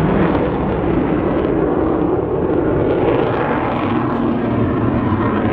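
Avro Vulcan's four Rolls-Royce Olympus jet engines running during a display flypast, a loud, steady jet roar.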